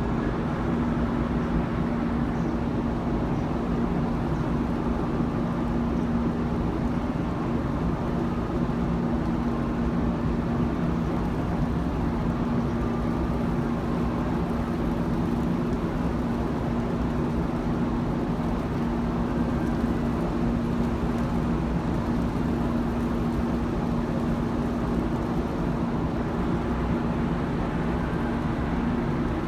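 Steady drone of a ferry's onboard machinery, with one constant low hum over a noisy rumble.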